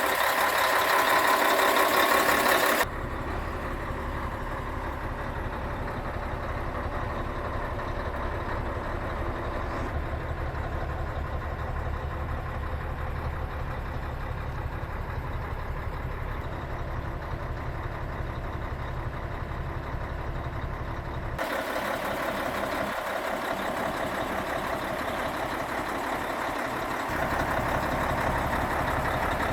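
Scania 113H truck's 11-litre straight-six diesel running steadily at idle. The sound changes abruptly about three seconds in and again near the end, becoming deeper in the middle stretch.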